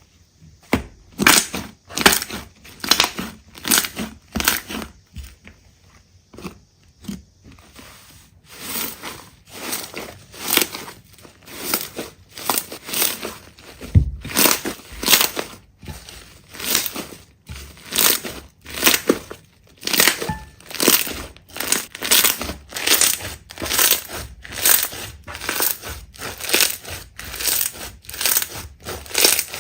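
Slime being squeezed and pressed by hand, giving a crackling, crunchy sound over and over, a little more often than once a second, with a quieter pause about five to eight seconds in.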